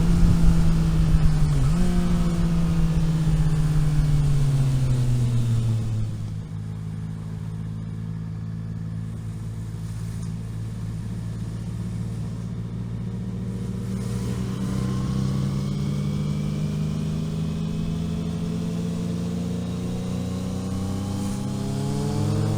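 A road vehicle's engine on the move. The revs fall over the first several seconds as it slows, with a brief dip and jump early on. It runs quieter and lower for a while, then the revs climb steadily as it accelerates again, rising faster near the end.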